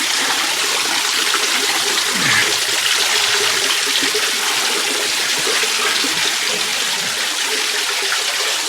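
Creek water rushing over a small waterfall into a pool, a steady, even rush.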